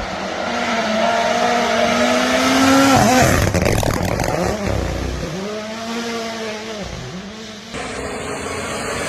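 Rally car engine at full throttle, its pitch climbing and then dropping sharply at gear changes several times, with a rough, noisy stretch in the middle; near the end the sound jumps abruptly to another car's engine.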